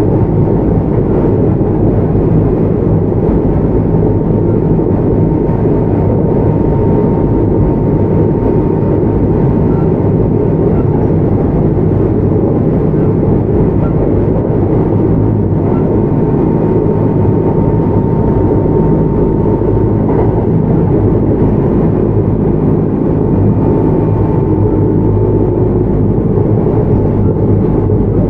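Kintetsu 1031-series electric train running at steady speed: a loud, even rumble of wheels on rails, with a thin steady whine above it that fades about two-thirds through and returns faintly near the end.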